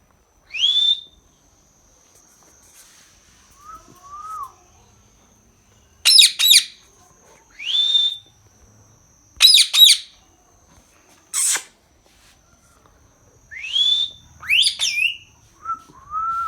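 A parrot giving a series of short calls with pauses between them, some of them rising whistles and others sharp, shrill squawks. A faint steady high tone runs underneath.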